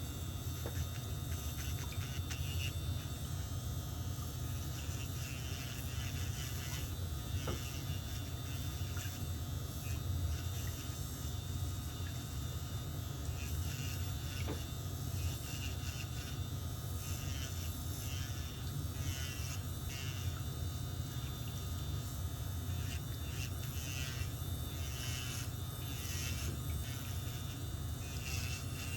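Electric nail drill (e-file) running with a steady low buzz as it works on toenails, with light, irregular scraping against the nail.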